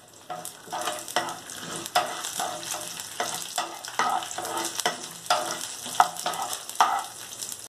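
A spatula stirring chana dal and urad dal, with mustard seeds and cumin, in hot oil in a nonstick frying pan. The oil sizzles steadily under repeated quick scrapes of the spatula on the pan as the dals fry for a South Indian tempering.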